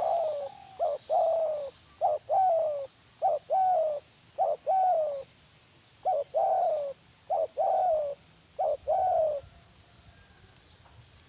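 Spotted dove (tekukur) cooing. Its call is a short note followed by a longer falling coo, repeated about eight times, with a short break midway, and it stops about nine seconds in.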